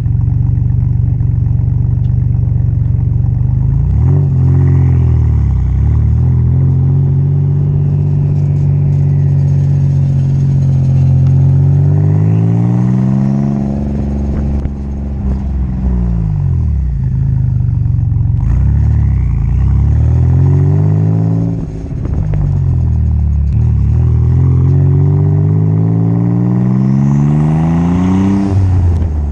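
Exhaust of a 1986 Nissan 300ZX Turbo's 3.0-litre turbocharged V6, idling steadily and then revved five or six times, the pitch climbing and falling back with each rev; one rev about halfway through is held up for a couple of seconds before it drops.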